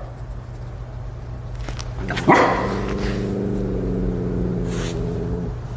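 A cat growling: one long, low, steady growl that starts suddenly about two seconds in and lasts about three seconds.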